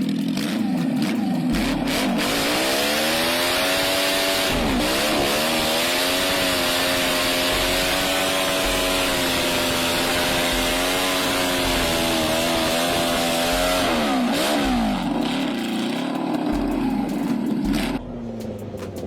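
Mini bike's small petrol engine revving. Its pitch climbs a couple of seconds in, holds high and wavering, dips sharply twice, and falls back to a lower, quieter running near the end.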